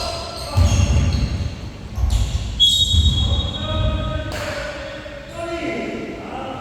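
Basketball bouncing on a gym floor during a game, a few deep thumps in the first four seconds, with a brief high squeak about two and a half seconds in and players' voices calling out.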